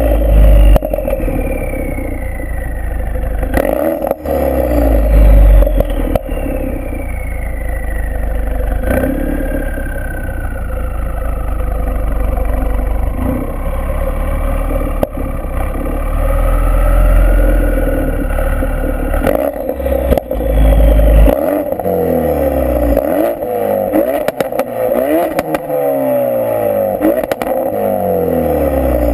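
Ford Focus RS mk3's turbocharged 2.3-litre four-cylinder running through a straight-through, non-resonated full decat Milltek exhaust. The note holds fairly steady for much of the time and then rises in pitch again and again near the end, the sound of the car pulling up through the revs in several short runs.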